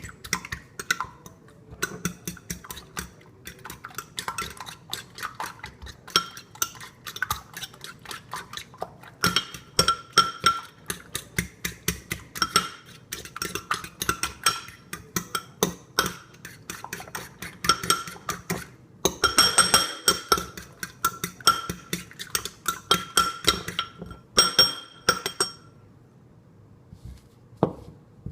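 Utensil beating an egg mixture in a bowl: fast runs of clinking strikes against the bowl, each ringing at the same bright pitch, with short pauses, stopping a couple of seconds before the end.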